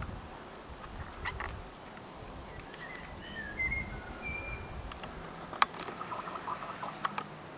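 A bird calling: a few short, high chirps and gliding notes in the middle, over a faint low rumble. Several sharp clicks cut through, the loudest about five and a half seconds in, with a patter of small ticks just after.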